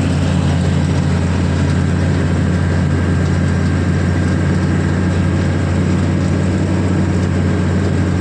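Combine harvester's diesel engine running at a steady speed, a constant low hum with no change in pitch.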